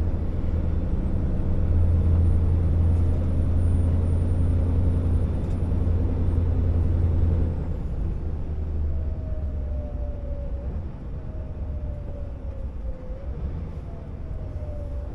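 Scania R650 timber truck's V8 diesel engine running under heavy load with a deep, steady drone. About halfway through it eases off and the drone drops in level. In the second half a faint whine falls in pitch several times.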